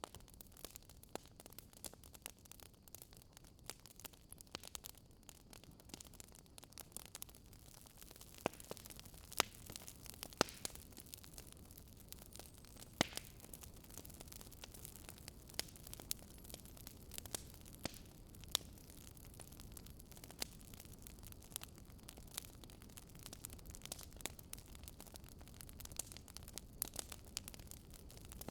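Wood fire crackling in a fireplace: a soft steady hiss with irregular sharp pops and snaps, several a second.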